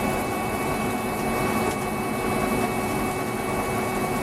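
TOS SUA 125 CNC lathe running with a steady mechanical hum and a couple of steady high whines, cutting off suddenly at the end.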